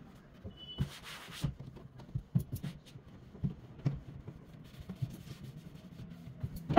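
Household items being handled while arranging a cupboard: scattered light knocks and clicks, with a brief rubbing sound about a second in.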